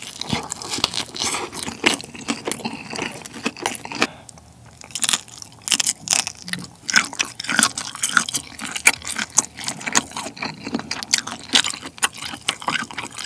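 Close-miked biting and chewing of a shrimp pizza slice: the crust crunching in many quick, irregular crackles.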